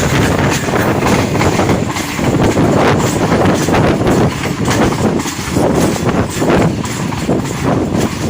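Rehman Baba Express passenger train running along the track, heard from on board: a loud, steady rumble of wheels and carriages, with repeated irregular knocks as the wheels ride over the rails.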